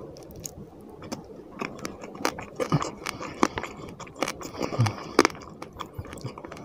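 Close-miked eating sounds: chewing fish and rice with wet smacking and irregular clicks, plus the soft squish of fingers mixing rice in curry gravy on the plate.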